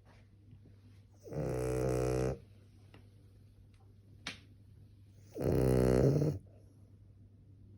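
Cavalier King Charles spaniel snoring: two loud snores, each about a second long, some four seconds apart.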